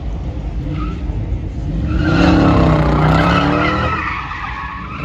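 A car spinning its tyres at high revs: the engine revs hard and the tyres squeal. It swells to its loudest about two to four seconds in, then eases off.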